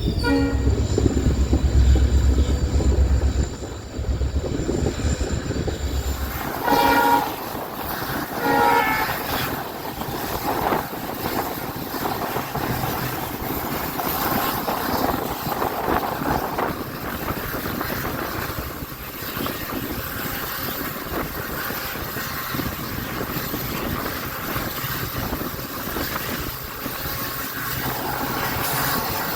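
Diesel-hauled passenger train: a heavy low rumble for the first few seconds, then two short horn blasts a little under two seconds apart, then the steady rolling noise of the train on the track.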